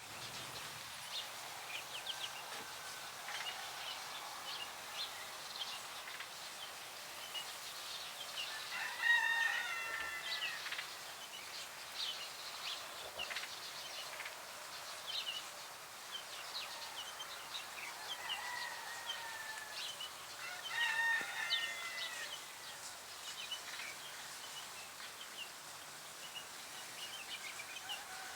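Birds calling: many short chirps throughout, with longer, drawn-out multi-toned calls about nine seconds in and again around eighteen to twenty-two seconds in.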